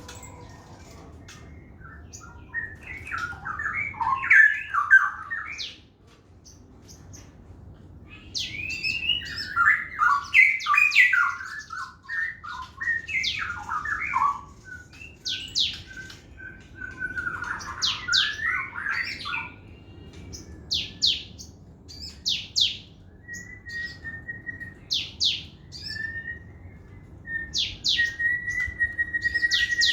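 A sogon trotol songbird singing energetically: bouts of fast, varied chattering notes, then a run of sharp, high whistled strokes and a held whistle near the end.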